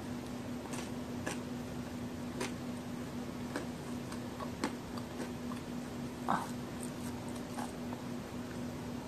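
Close-miked chewing of a large homemade chocolate-and-raisin cookie, crisp outside and soft inside: scattered small crunches and mouth clicks at irregular spacing, the loudest a little after six seconds in, over a steady low hum.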